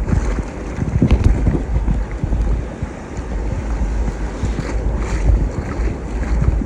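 Wind buffeting the microphone over rough surf, an uneven low rumble with the wash of waves beneath it.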